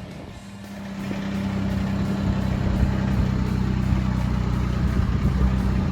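Kubota BX23S compact tractor's three-cylinder diesel engine running steadily. It grows louder over the first two seconds, then holds level.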